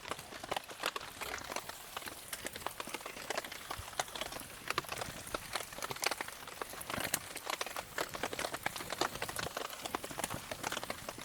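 Wood campfire crackling and popping in the rain, with many irregular sharp snaps.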